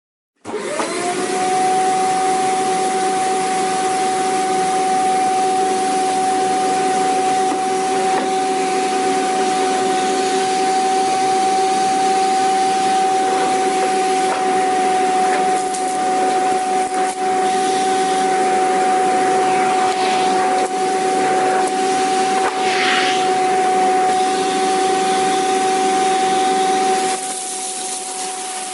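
Vacuum cleaner switching on: the motor whine rises to a steady high pitch within about a second, then runs evenly with a loud rushing hiss of air. Near the end the sound becomes slightly quieter.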